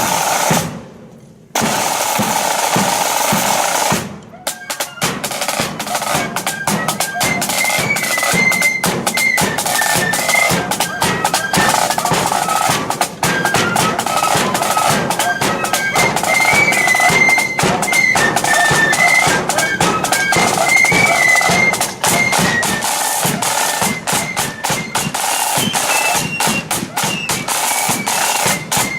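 Blood-and-thunder flute band playing a march: fast snare drumming with rolls and a bass drum, breaking off briefly near the start, then from about five seconds in the flutes carry a high tune over the drums.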